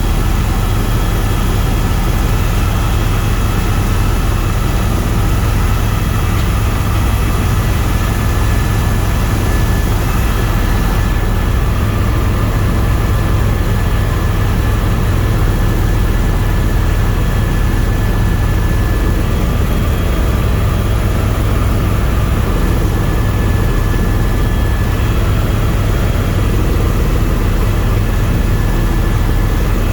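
Tour helicopter in flight: steady rotor and engine noise, strongest in the deep bass, with faint steady whining tones above it.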